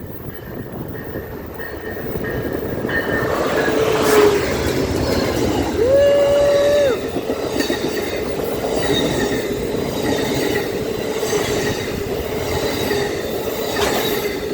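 A train passing close by at speed: a loud, swelling rumble of wheels on rails with clickety-clack that keeps on through the pass. A short steady tone sounds about six seconds in.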